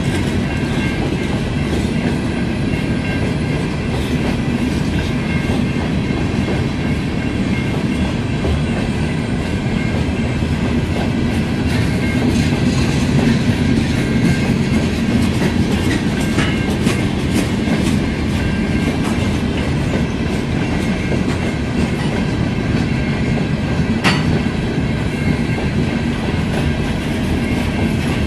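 Hopper cars of a long freight train rolling past, a steady rumble of steel wheels on rail with a rhythmic clickety-clack over the rail joints. One sharp clank stands out near the end.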